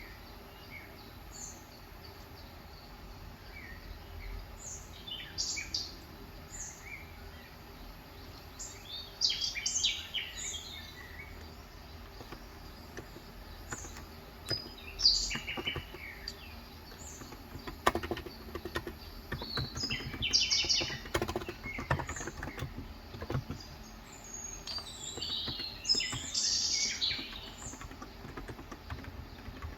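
Small birds chirping on and off throughout, with a run of keystrokes on an electro-capacitive (Topre-style, 35 g) keyboard about halfway through.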